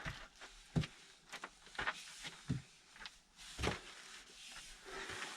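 A faint run of irregular knocks and scrapes, about five in all, from a person clambering over rock and loose stones.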